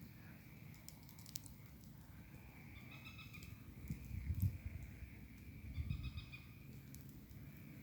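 Faint outdoor night sounds: an animal call of several stacked notes repeating twice, a few sparse sharp clicks, and two low rumbles in the middle that are the loudest sounds.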